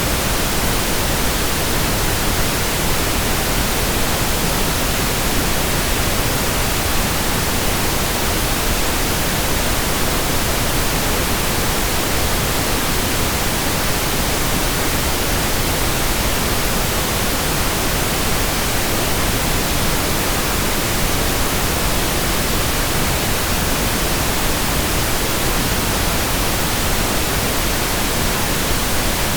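Steady synthetic pink noise: an even, unchanging hiss across the whole range, fuller in the low end than white noise.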